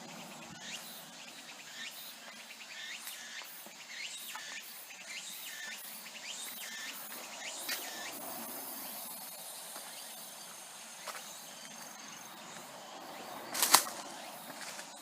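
Irregular crackling and rustling, as of footsteps through broken branches and forest litter, with one sharp snap near the end. Faint insects chirring in the background.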